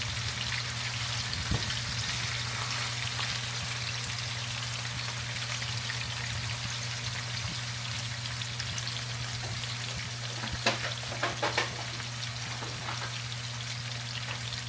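Chopped chicken thighs frying in olive oil in a pan: a steady sizzling hiss over a low, even hum, with a few light clicks about two-thirds of the way through.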